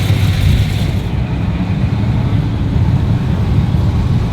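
A car engine running with a steady low rumble, alongside a hiss that fades about a second in.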